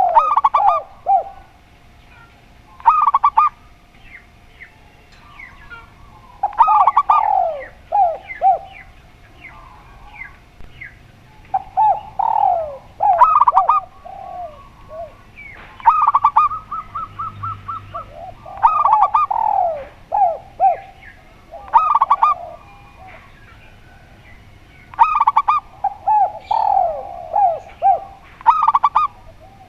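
Spotted dove and zebra dove cooing in repeated phrases every few seconds, with a fast run of short, even notes about halfway through.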